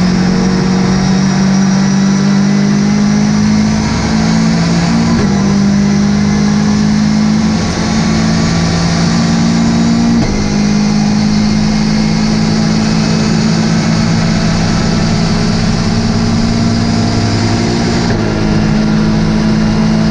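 Ginetta GT5 race car's engine running hard at steady high revs, its note shifting slightly a few times.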